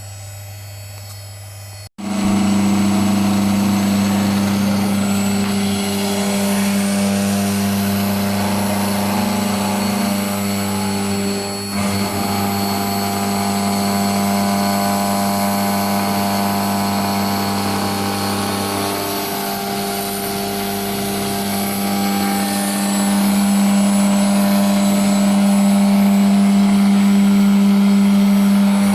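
CNC wood router running, its 3.5 kW air-cooled 18,000 RPM HQD spindle giving a loud, steady whine with a constant low hum and hiss. It starts abruptly about two seconds in, with a short dip around the middle and a slight rise near the end.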